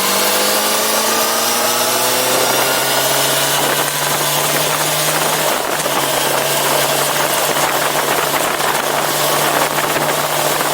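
Yamaha FZ6R sportbike's inline-four engine running. Its note rises slightly over the first three seconds, then holds steady over a constant rushing noise.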